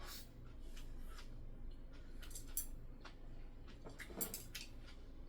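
A person eating: quiet chewing with scattered light clicks and taps, a few close together past the two-second mark and a louder one a little after four seconds.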